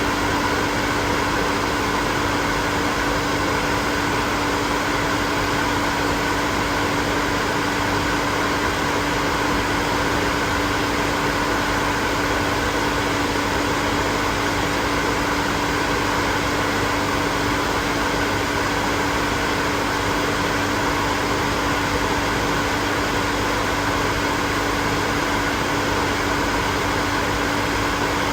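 Hair dryer running continuously, a steady whooshing airflow with a constant motor hum underneath and no change in speed.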